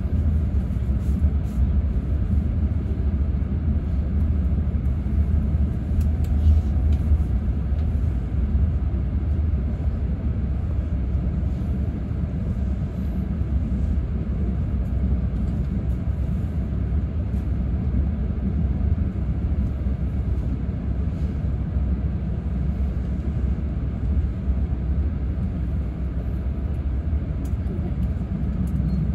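Steady low rumble of an E6 series Komachi Shinkansen train running along the line, heard from inside the passenger cabin.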